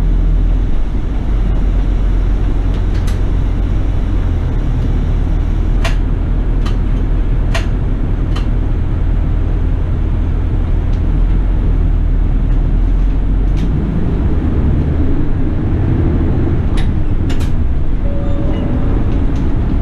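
Toei city bus riding along, heard from inside the cabin: a steady low engine and road rumble with scattered sharp clicks and rattles. The deepest part of the rumble eases about two-thirds of the way through.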